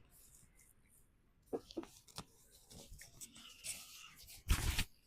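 Close-up eating noises: scattered wet mouth clicks and smacks, then a louder noisy burst lasting about half a second near the end.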